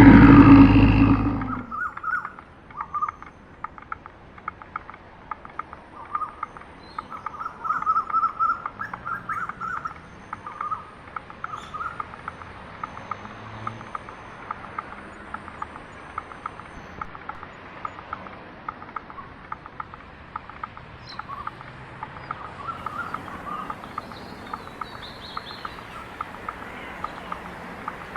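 A loud animal roar dies away about a second and a half in, then small birds chirp in many quick, short calls.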